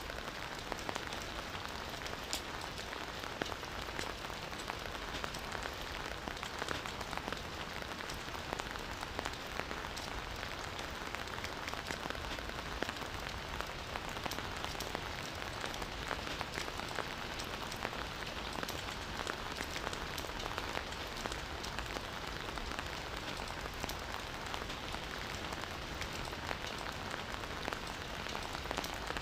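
Steady rain falling, a dense even hiss with many small droplet ticks pattering on surfaces.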